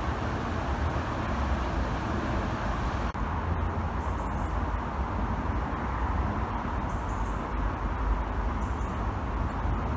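Steady rushing of a flowing river, with a low wind rumble on the microphone.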